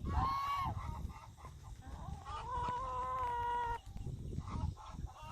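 Gander honking: a short arched honk right at the start, then a long drawn-out call held steady for about a second and a half starting around two seconds in, over a low rumble of the flock.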